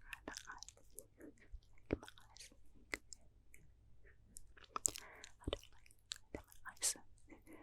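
Close-miked ASMR mouth sounds: irregular wet clicks and lip smacks, with a soft breathy puff about five seconds in.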